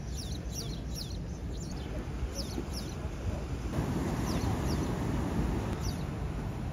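Small birds chirping in several short runs of quick, high notes that each slide downward, over a steady low rumble.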